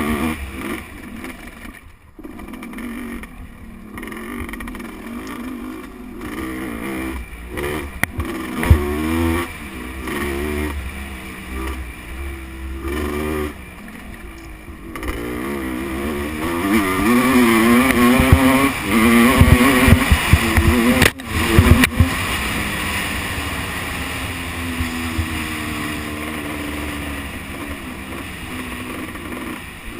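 Motocross bike engine revving up and down as it is ridden around a dirt track, loudest about halfway through, with wind rumble on the microphone and a few sharp thumps.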